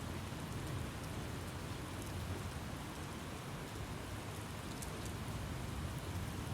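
Steady rain falling, with a low rumble underneath and a few faint drop ticks.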